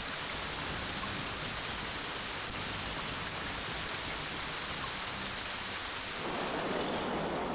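Steady heavy rain hissing, growing fuller and louder in the middle range about six seconds in.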